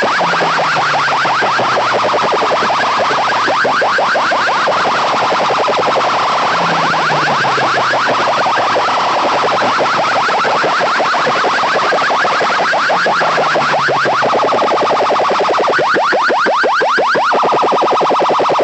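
Loud electronic alarm-like effect played through a DJ sound system's loudspeakers: a very fast pulsing warble, with a deep falling tone that comes back about every six seconds.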